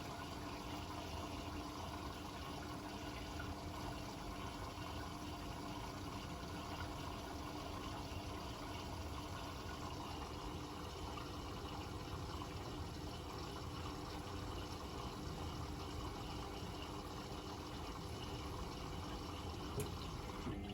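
Hotpoint WML540 washing machine with water running through it: a steady rush of water with a low, even hum underneath.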